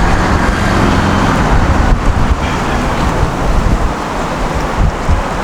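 City street traffic: motor vehicles running past with a steady low rumble.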